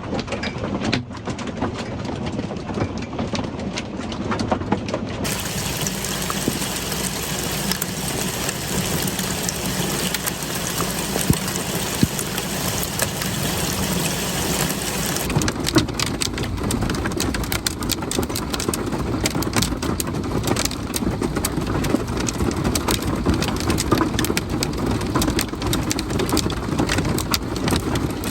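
Hail hitting the metal shell of a small vintage RV, a dense, continuous clatter of countless strikes. The clatter turns brighter about five seconds in and shifts again past the middle.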